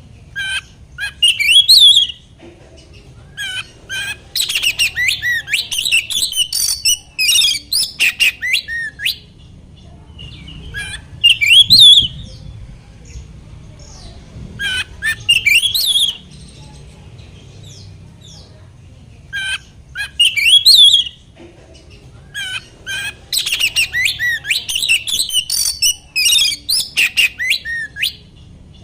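Oriental magpie-robin song: bouts of loud, rapid chirps, whistles and rasping notes, the strident full song kept to provoke other magpie-robins into singing. The bouts are separated by pauses of a second or two, with the longest run in the last few seconds.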